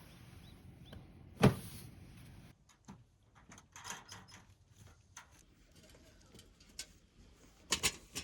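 A sharp knock about a second and a half in, small clicks and rustles, then two more knocks close together near the end, as of camp gear being handled and set down.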